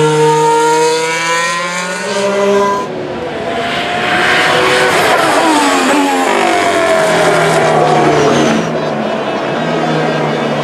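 Formula 1 cars with turbocharged 1.6-litre V6 hybrid engines running at high revs, several passing in turn. Their engine pitch slides up and down as each goes by, with a cluster of falling pitches near the middle as cars sweep past.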